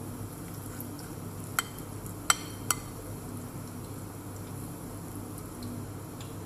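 Oil sizzling gently under cabbage-and-tuna fritters frying in a pan, with three sharp, ringing clinks of a spoon against a dish between about one and a half and three seconds in.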